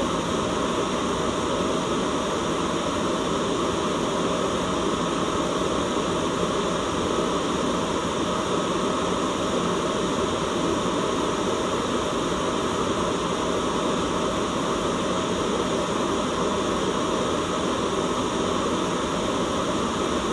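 Steady white noise: an even, unchanging hiss with no breaks or changes.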